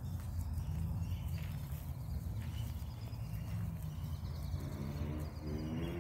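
Outdoor pond-side ambience: a steady low rumble of wind on the microphone with faint footsteps. About four and a half seconds in, a pitched, rapidly pulsing sound starts.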